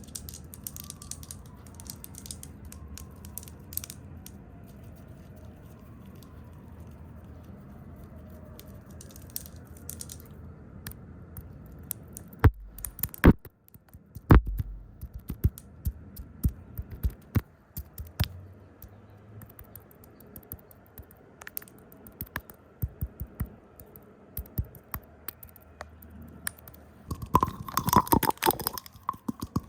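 Close-miked ASMR trigger sounds made by hand. A low steady brushing rustle runs for the first dozen seconds. Sharp taps and clicks follow from about twelve seconds in, with a fast flurry of tapping near the end.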